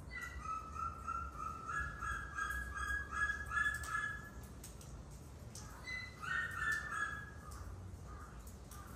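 A bird calling in runs of short repeated notes, one run lasting about four seconds, a second shorter run about six seconds in, over a low steady rumble of wind or background noise.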